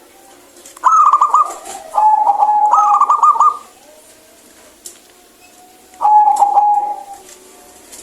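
Local zebra dove (perkutut) cooing: three phrases of its rapid, rolling trilled coo, about a second in, again at two seconds for the longest one, and once more around six seconds.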